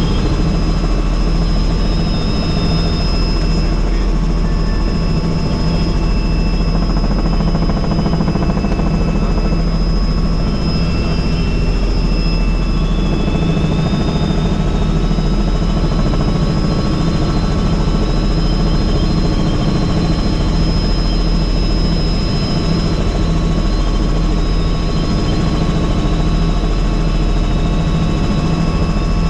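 Helicopter in flight, heard from on board: the steady, loud drone of the rotor and engine, with a thin steady high whine above it.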